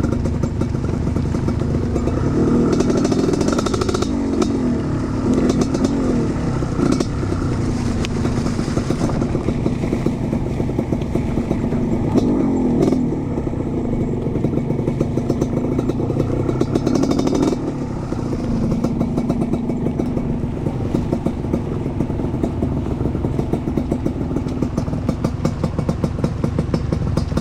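Trail motorcycle engine running, its pitch rising and falling as the throttle is worked, with some clatter.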